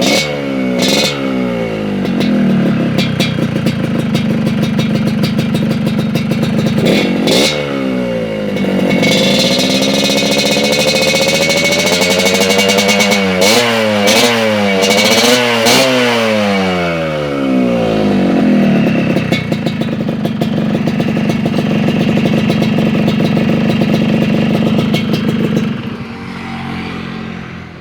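Motorcycle engine through an aftermarket racing exhaust, a chrome 'King Lobster' muffler with a blue silencer, idling and being revved in repeated throttle blips, with a longer run of revs in the middle. The sound falls away near the end.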